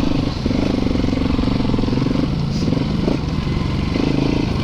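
Yamaha YZ450FX dirt bike's single-cylinder four-stroke engine running steadily while riding.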